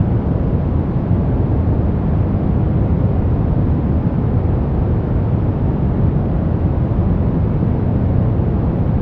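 Steady brown noise: a constant deep rush with most of its weight in the low end and little treble, with no changes.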